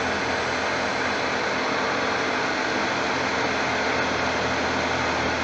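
Laguna 1836 wood lathe running at a steady speed with a large bowl blank spinning on it: an even whir with a low hum and no cutting.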